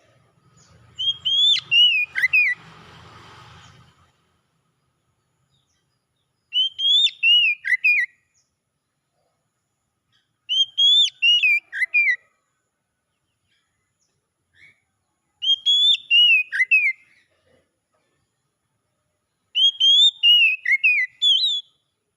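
Oriental magpie-robin (kacer) singing: five short phrases of clear, swooping whistled notes, each about a second and a half long and repeated every four to five seconds. A brief rushing noise lies under the first phrase.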